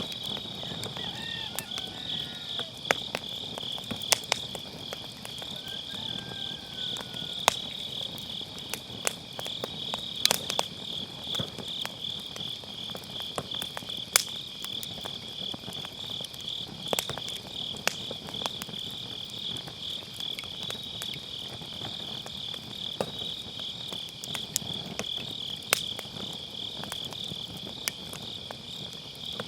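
Crickets chirping in a steady, fast pulsing trill, over a firewood fire in a fire pit crackling, with sharp pops from the burning logs every few seconds.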